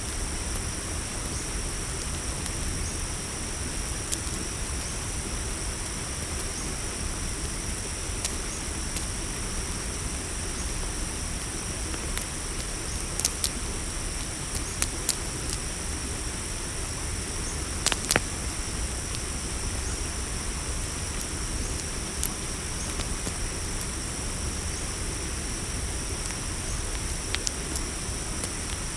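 A steady chorus of crickets chirping, with the irregular sharp pops and snaps of a crackling campfire over a low steady rumble.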